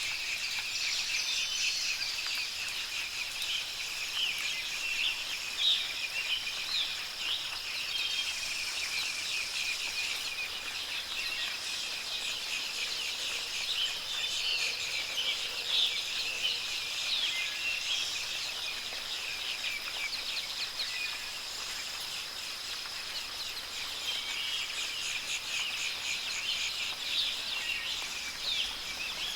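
A dense chorus of small birds chirping and twittering, many short calls overlapping throughout. Under it run a steady high-pitched insect-like drone and a soft, even hiss.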